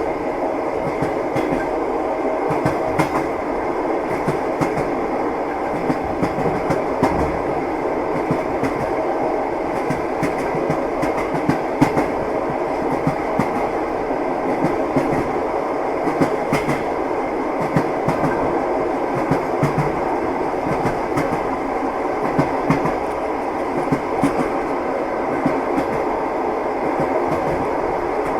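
Passenger train heard from inside the carriage: a steady rumble of the moving train with frequent clicks of the wheels running over the rail joints.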